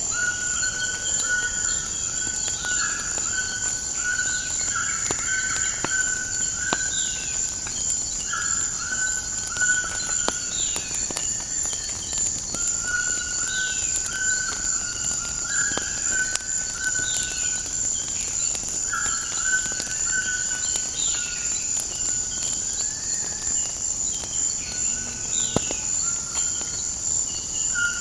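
Nature ambience with a steady high-pitched insect drone and birds calling again and again in short held and falling notes. Scattered light crackles and pops run underneath, in keeping with a crackling fire.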